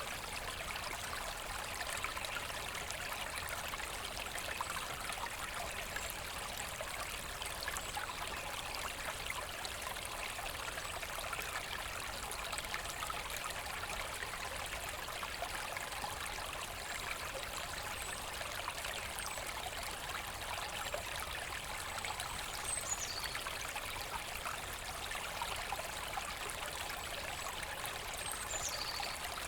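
Forest stream flowing steadily over stones, a continuous babble and trickle of water. Twice in the second half come faint high whistles that fall in pitch.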